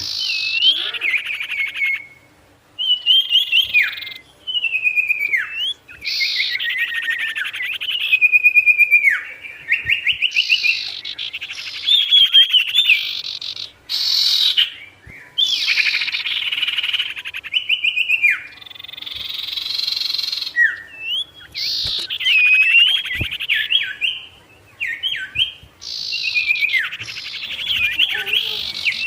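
A songbird sings persistently in a varied song of fast trills and sharply down-slurred whistles. The phrases are broken by brief pauses. It is the kind of loud territorial song used to provoke and lure rival wild birds.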